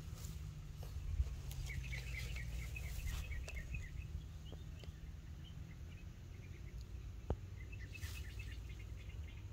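Birds chirping in two bursts of quick, short high notes, about two seconds in and again near the end, over a low steady rumble.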